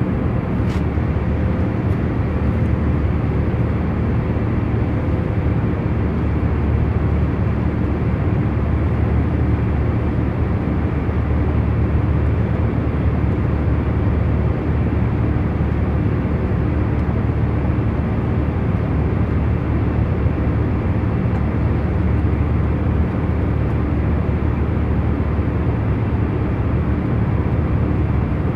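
Airliner cabin noise in cruise: a steady low hum with a few faint steady tones in it.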